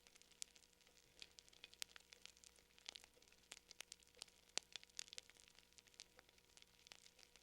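Faint crackling fire: irregular sharp pops and snaps, several a second.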